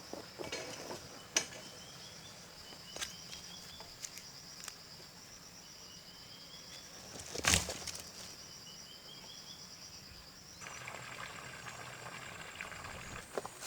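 Steady high-pitched insect buzzing with short rising chirps repeating every second or two, broken by a few light knocks and one louder knock about seven and a half seconds in. A hissing layer joins about eleven seconds in.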